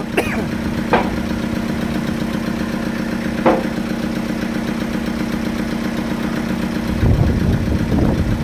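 Sawmill engine running steadily at a constant speed, with a short knock about a second in and another about three and a half seconds in, then a louder low rumble from about seven seconds.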